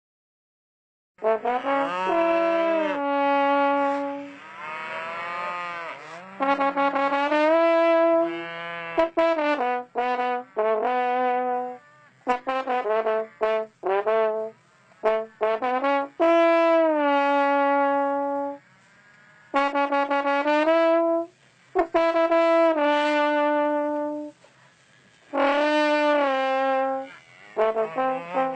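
Brass music: a trombone-like horn playing a melody of held and short notes, some sliding in pitch, with brief pauses between phrases.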